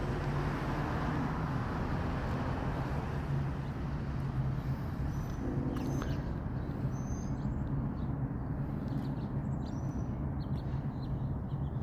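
Steady low hum of a running vehicle engine, with small high bird chirps from about five seconds in.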